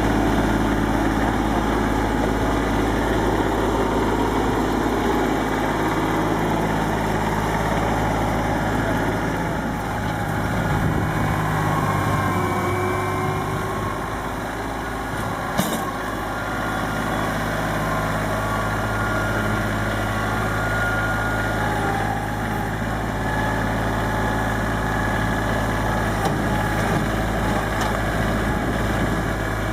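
Tractor engine running steadily, with one sharp click about halfway through.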